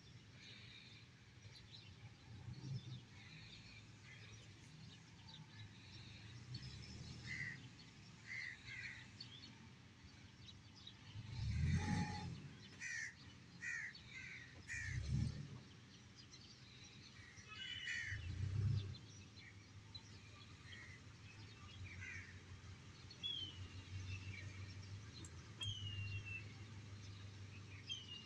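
Crows cawing in several short series of calls, with a few low rumbles in between.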